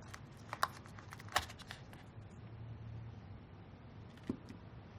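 Faint, scattered sharp clicks and light handling noise from small plastic parts as tubing is pulled off fittings and a pressure sensor assembly is lifted out of a ventilator, the clearest clicks coming about a second and a half in and near the end.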